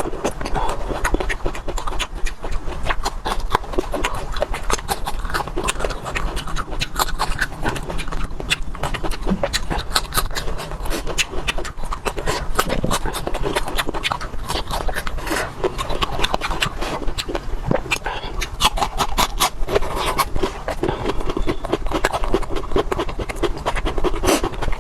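Close-up chewing of raw red chillies: steady crunching with many small clicks and wet mouth smacks.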